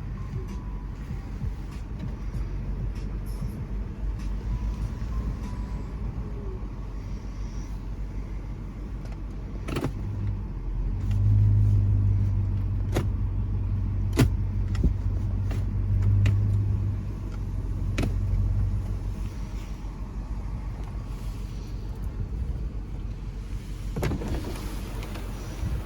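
BMW E39 540i's 4.4-litre V8 running with a steady low drone. The drone grows louder for several seconds from about ten seconds in, then settles back. A few sharp knocks come in between.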